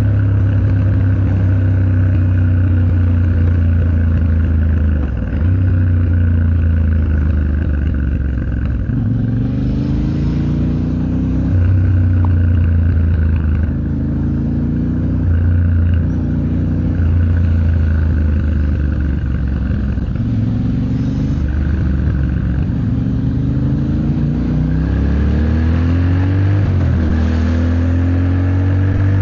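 Yamaha Ténéré 700's 689 cc parallel-twin engine accelerating in traffic: the engine pitch rises several times and drops back at each upshift, between steadier stretches of cruising, over road and wind noise.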